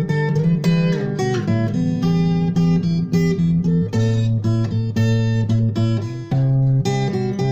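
Instrumental acoustic guitar music: plucked notes and strummed chords, one after another throughout.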